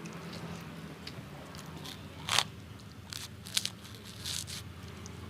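A person biting and chewing crunchy food, with a handful of sharp crunches, the loudest about two seconds in.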